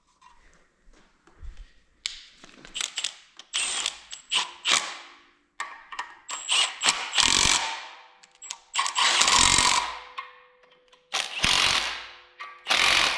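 A power tool run in a string of short bursts, about a dozen of them, tightening the bolts that fasten a water pump to the engine block.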